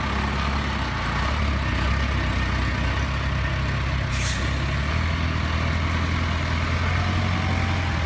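A delivery truck's engine runs steadily as the stuck truck is worked free, its note stepping up slightly about five seconds in. There is a short hiss of air about four seconds in.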